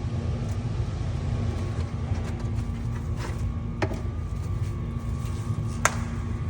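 Steady low hum with a faint steady tone, broken by a few sharp clicks about halfway through and again near the end.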